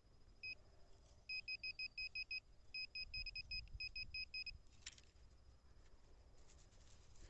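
Handheld metal-detecting pinpointer beeping over a buried metal target: one short high beep, then two runs of rapid, evenly spaced beeps at about seven a second.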